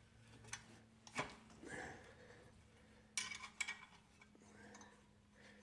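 Faint clinks of a wrench on the engine's bracket bolts while the belt is being loosened: a single click about a second in and a quick cluster of clicks a little past three seconds, over a faint low hum.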